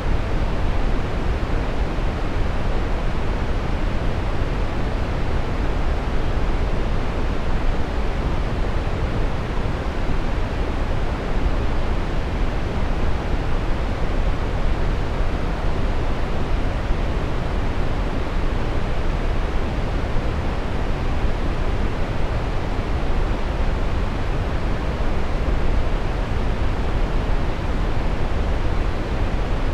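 Steady brown noise: an even, unchanging rushing hiss weighted heavily toward the low end, with little in the highs and no events or changes.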